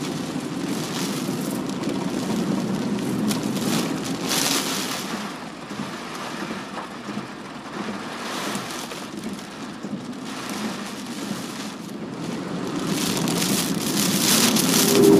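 Typhoon-driven rain and wind beating on a moving car over the car's steady road rumble. The rain comes in gusts, swelling about four seconds in, again near eight seconds, and most strongly near the end.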